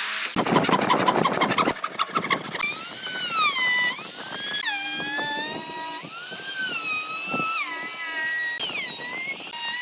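Power tool motor: a quick rapid rattling, then a whine that rises and falls in pitch again and again as the tool's speed and load change.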